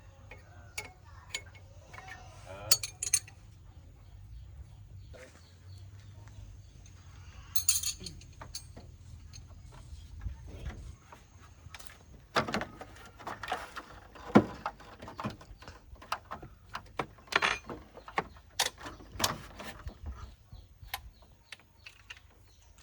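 Metal tools and parts clinking and knocking in irregular sharp taps, busiest and loudest in the second half, over a faint steady low hum.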